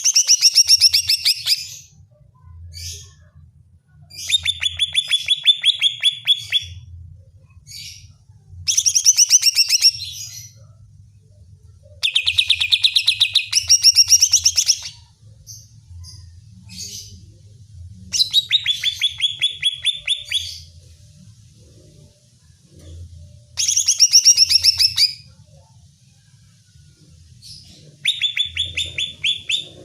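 Green leafbird (cucak ijo) calling in repeated bursts: seven fast, rattling trills of sharp high notes, each one and a half to three seconds long, with a few single notes in the pauses between. It is the excited, aggressive calling that keepers play to fire up their own cucak ijo.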